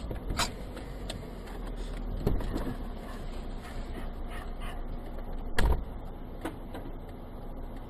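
Car cabin sound from a dashcam: a steady low rumble with several sharp knocks and clicks, the loudest a heavy thump about five and a half seconds in.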